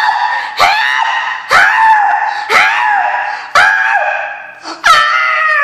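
A woman's high falsetto imitation of a dog howling: about six short howls roughly one a second, each starting abruptly and sagging a little in pitch. The last is held longer and falls away.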